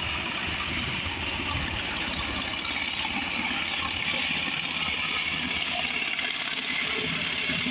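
Firefighting helicopter flying overhead: a steady turbine-and-rotor noise with a low, fast pulsing underneath, growing slightly louder toward the end.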